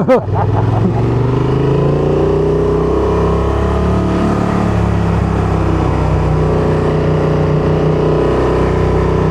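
Van engine running under way, pulling up in pitch over the first few seconds as it accelerates, then holding a steady cruise.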